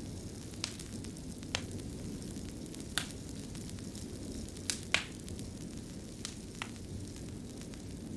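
Fire crackling in a stone fireplace: a steady low rumble of flames with sharp irregular pops, about seven in all, the loudest two close together about five seconds in.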